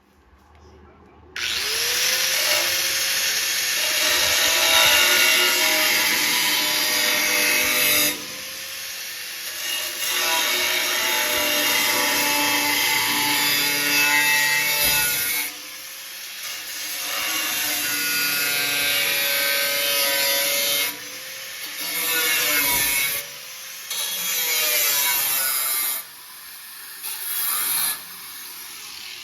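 Angle grinder spinning up and grinding the thin steel of a snowmobile frame, in several long passes separated by short pauses.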